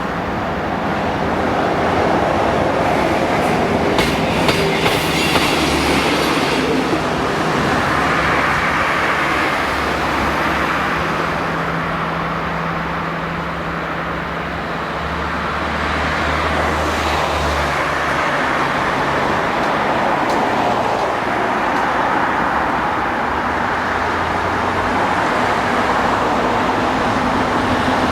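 Passenger train passing over the level crossing: a continuous rumble with wheels clattering over the rail joints, the sharpest clicks coming about four to six seconds in.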